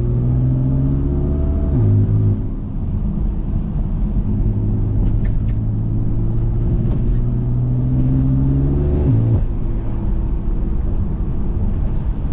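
BMW F80 M3's twin-turbo S55 inline-six running through 3.5-inch catless downpipes, a single mid-pipe and an open valved axle-back, under light throttle: its pitch climbs slowly, drops sharply about two seconds in, then climbs again and drops sharply again near nine seconds.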